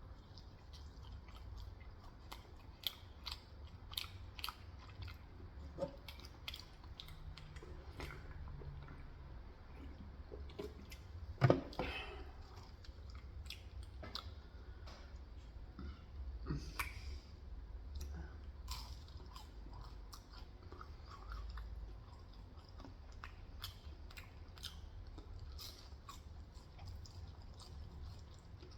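Close-miked chewing of fast food, with many small wet mouth clicks and one louder mouth sound about eleven seconds in, over a steady low hum.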